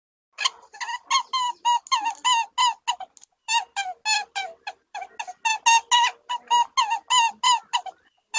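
A fast series of short, squeaky animal calls, about four or five a second, with a brief pause about three seconds in.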